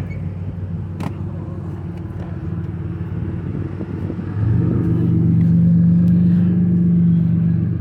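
Straight-piped exhaust of a Pontiac Grand Prix GTP's supercharged 3.8-litre V6 idling with a steady low drone, no mufflers, resonator or catalytic converter. About halfway in, a louder steady engine drone from a passing riding lawnmower joins it for about three seconds.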